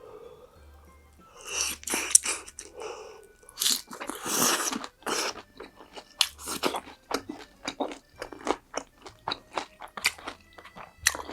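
Mouth crunching through crispy fried food: two long crunching bites, about a second and a half in and again about four seconds in, then steady chewing with many short sharp crackles.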